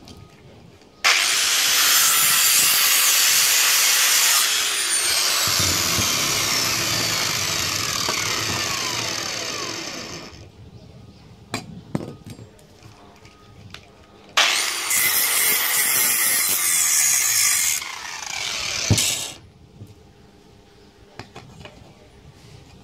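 A handheld power tool working metal in two long runs, the first about nine seconds long, its pitch falling as it slows toward the end, the second about five seconds. A few sharp knocks come between and after the runs.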